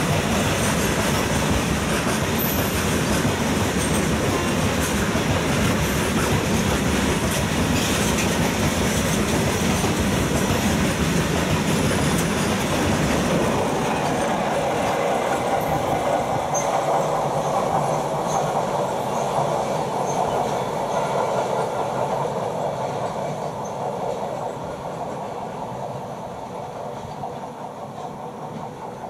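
Goods train of covered boxcars rolling past at speed, the wheels rumbling and clacking over the rail joints. The noise eases off in the second half and fades as the tail of the train draws away near the end.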